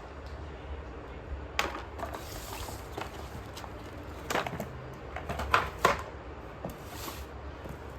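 Slate pencils cracking: a few sharp, crisp crunches, the first about a second and a half in and a cluster between four and six seconds in, over a low steady hum.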